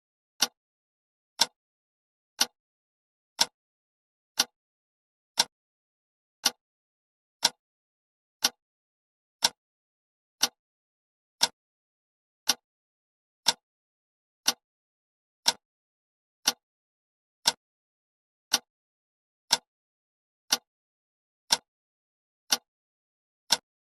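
Countdown timer ticking: one short, sharp tick each second, with silence between.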